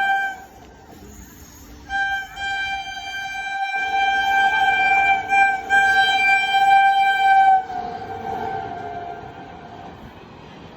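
Horn of the Patna–Kota Superfast Express sounding: a short blast at the start, then one long blast of about six seconds. Near the end its pitch drops slightly and it fades away as the train passes at speed.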